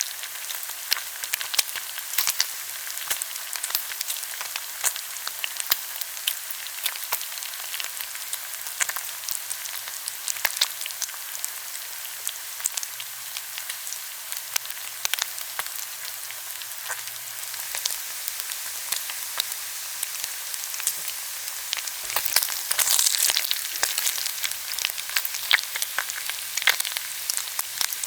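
Skin-on pork belly (ogyeopsal) grilling: a steady sizzle thick with small pops and crackles from the spitting fat. About three-quarters of the way through the sizzle flares louder for a couple of seconds.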